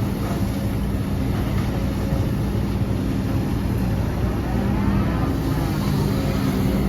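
Diesel engine of heavy earthmoving machinery running steadily under load, with a higher whine that rises and falls about five seconds in.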